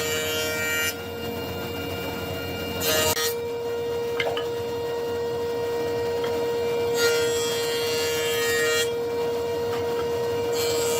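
Woodworking power tool running with a steady whine, with several passes of hissing rasping noise as it cuts or sands wood: briefly at the start, a short pass about three seconds in, a longer one about seven seconds in, and another near the end.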